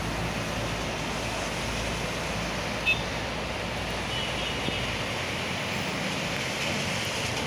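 Steady rain falling over a city, an even hiss with a low rumble of distant traffic that fades out about five seconds in. A short, sharp high-pitched sound cuts through just under three seconds in.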